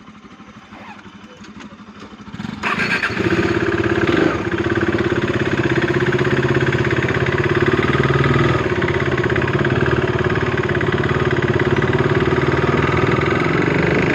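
Motorcycle engine starting about two and a half seconds in, then running steadily and loudly.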